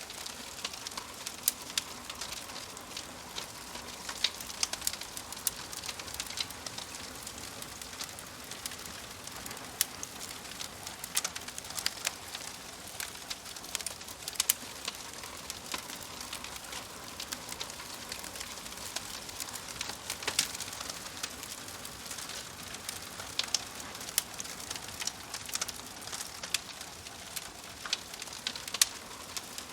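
Wood fire crackling in a fireplace: a steady hiss with frequent irregular sharp pops and snaps from the burning logs.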